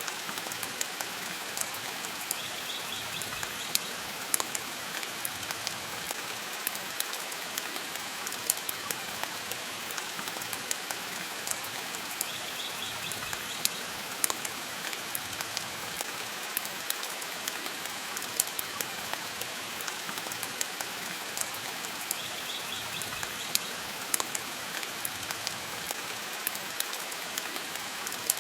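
Steady rain hiss mixed with the crackle of a wood fire in a fireplace, sharp pops scattered irregularly throughout. A faint brief high sound recurs about every ten seconds.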